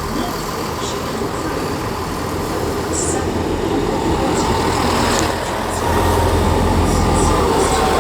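Pair of Class 158 diesel multiple units running into the platform, a steady diesel engine rumble that grows louder about six seconds in.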